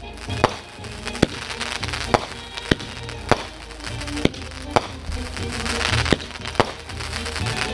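Fireworks going off in a string of sharp bangs, about one every half second to a second, over music playing throughout.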